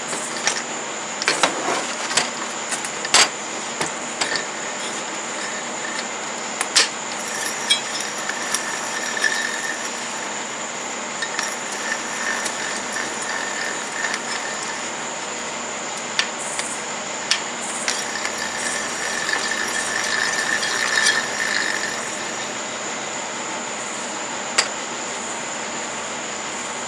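Hand tools working on a riding mower's transaxle as it is taken apart: scattered sharp metal clicks, knocks and clinks, with stretches of denser clicking, over a steady background hiss.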